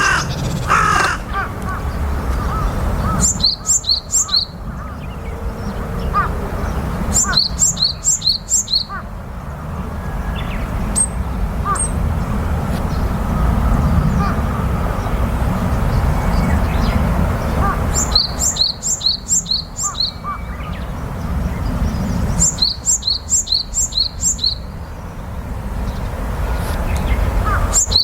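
Japanese tit singing its repeated two-note 'tsupi-tsupi' song: four bouts of four or five quick high-low note pairs, each bout lasting about one to two seconds, separated by pauses of several seconds. A steady low rumble runs underneath.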